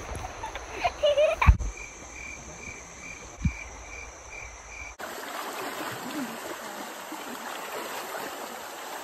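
Rainforest sounds: a high call pulsing evenly, about two or three times a second, with a couple of dull thuds. About five seconds in it cuts to the steady rush of a flowing river.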